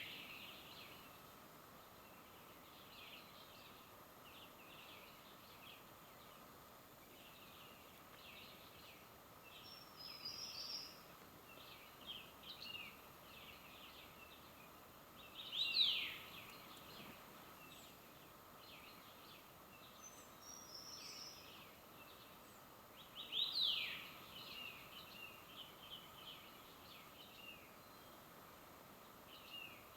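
Wild birds calling in mountain forest: scattered short chirps throughout, with a louder falling call twice, about 16 and 23 seconds in, over a faint steady hiss.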